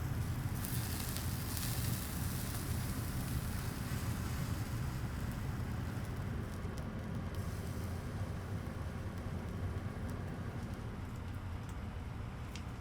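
Charcoal burning in a Uniflame Fire Grill Solo, crackling and hissing, with a few sharp pops, one of them near the end, over a steady low hum.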